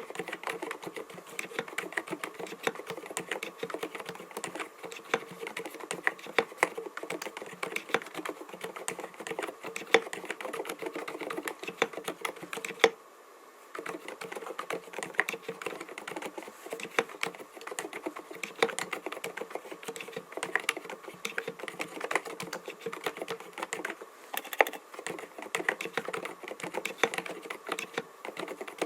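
Typing on an mStone Groove T 87A mechanical keyboard with 45 g silent Milky switches: a fast, continuous run of muted keystrokes, with a brief pause about thirteen seconds in.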